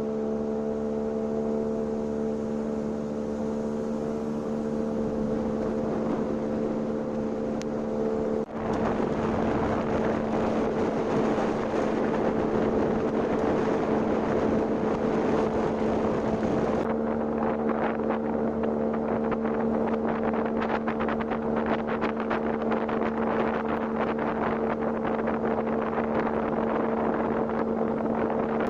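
Motorboat engine running at a steady speed, a constant drone with wind and water rushing over it. After a brief dip about eight seconds in, the rushing noise becomes louder.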